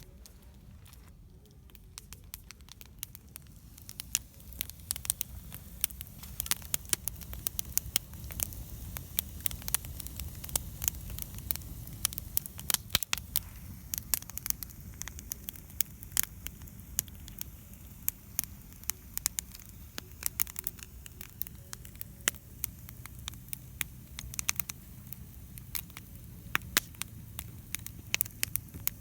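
Wood campfire crackling, with irregular sharp pops and snaps over a low, steady rumble. The pops come more often after the first few seconds.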